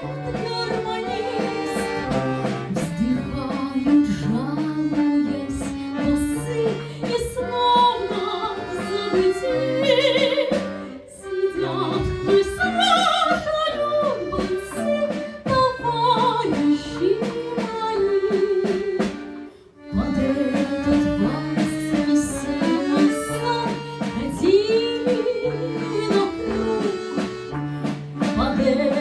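A woman singing a slow Russian wartime waltz with vibrato, accompanied by a folk ensemble with bayan accordion and a regularly repeating bass. The music drops briefly twice, between sung phrases.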